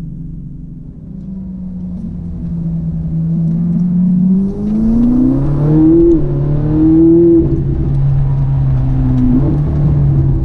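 Ferrari 458 Italia's naturally aspirated V8 heard from inside the cabin, pulling away and accelerating: the engine note climbs, drops at gear changes around the middle, then holds a steadier pull near the end.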